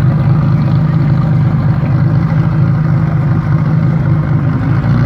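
A car engine running loud and steady, holding one pitch with no revving.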